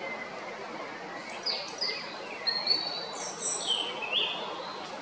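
Songbirds chirping: a run of short high notes and quick falling whistles over steady background noise, concentrated in the middle of the clip.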